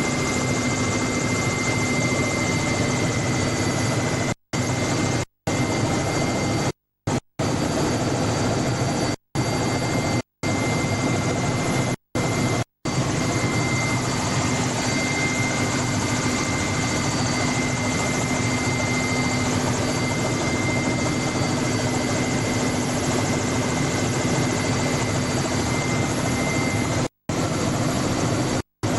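Helicopter running in steady flight, heard from aboard: a continuous noisy drone with a steady high whine over it. Several brief dropouts cut the sound out completely for a fraction of a second.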